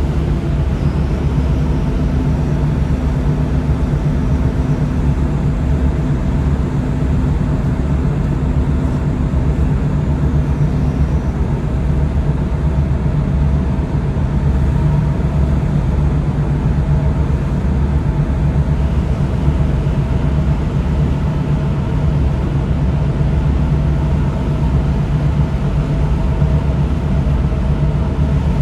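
Tugboat's diesel engine running steadily, a deep, even hum with a few steady tones over it.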